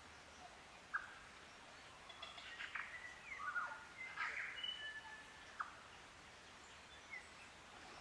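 A native New Zealand forest bird singing a varied phrase of short whistles, gliding notes and sharp clicks about two seconds in, lasting roughly three and a half seconds. A single sharp note sounds about a second in, and another faint note near the end, over a faint steady forest background.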